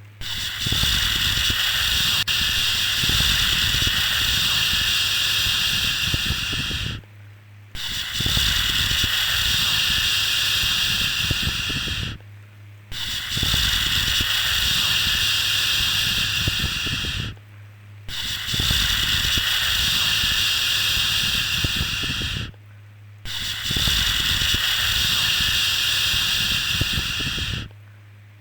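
A repeated 'shhh' shushing sound for soothing a baby to sleep: a long, steady hiss held about five seconds at a time, with short breaks between, five shushes in all.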